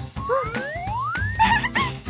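Cartoon score with a steady low musical backing, over which one long smooth pitch glide rises for about a second, followed near the end by a few short wavering squeaks.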